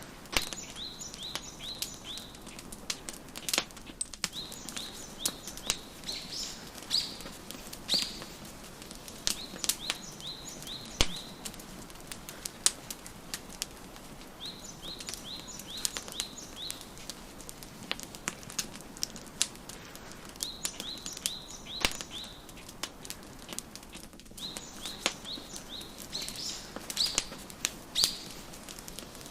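Wood fire crackling, with sharp pops scattered throughout, the loudest about eleven seconds in. A songbird sings short runs of high, quick chirps every few seconds over a soft background hiss.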